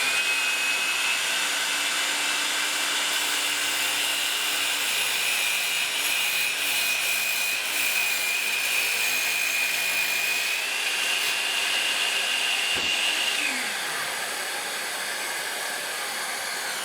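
DeWalt 20V MAX 7-1/4-inch cordless sliding miter saw running and cutting through a board, its motor giving a steady high whine over the hiss of a shop vacuum pulling dust from the saw. The whine steps up slightly about ten seconds in, then winds down about thirteen seconds in while the vacuum keeps running.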